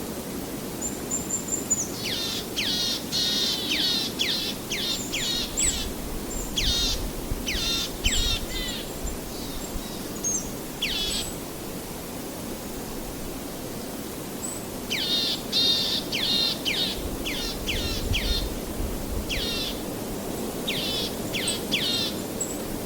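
Birds calling in two bouts of quick, steeply falling high-pitched notes, with a single call between them, over a steady rushing background noise.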